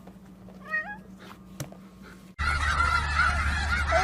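A short, rising whine-like call about a second in. Then, suddenly, from about two and a half seconds in, a flock of geese honking loudly over one another.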